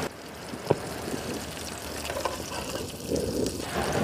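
A large prawn frying in coconut oil in a shallow pan: a steady sizzle with a few sharp pops.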